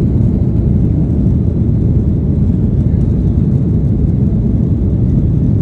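Airliner taking off: a loud, steady low rumble of engines and rushing air.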